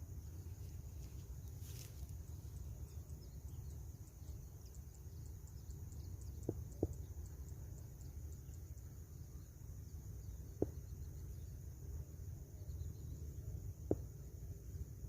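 Insects trilling steadily in a rice field, a high, fast even pulse, over a low rumble. Four short sharp clicks stand out, two close together about halfway through and single ones later.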